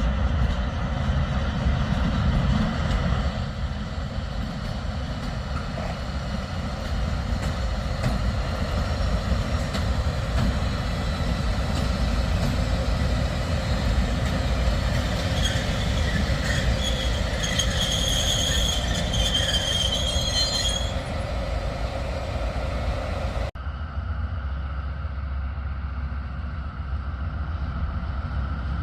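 Train running on rails with a steady low rumble; from about halfway through, a high-pitched metal squeal comes and goes for several seconds. Near the end the sound cuts abruptly to a duller rumble.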